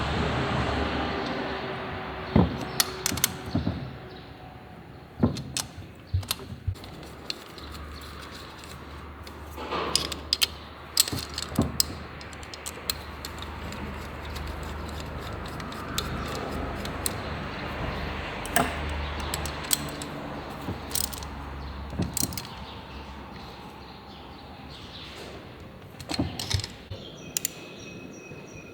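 Metal hand tools and parts clinking and knocking during work on a Honda Wave 110 engine: irregular sharp clicks in small clusters, with quieter stretches between.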